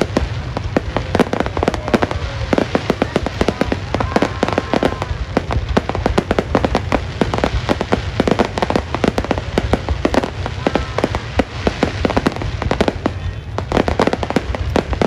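Fireworks display going off: a dense, continuous barrage of rapid bangs and crackles over a steady low rumble.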